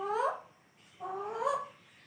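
Alexandrine parakeet talking in a mimicked human-like voice: one short phrase trails off just after the start and a second short phrase with rising pitch comes about a second in.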